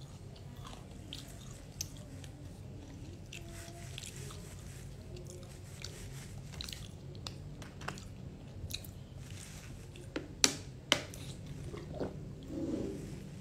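Close-up chewing and crunching of crispy flour-battered fried cabbage, with many small crackles. About ten seconds in come two loud sharp clicks, then a gulp of water from a plastic bottle near the end.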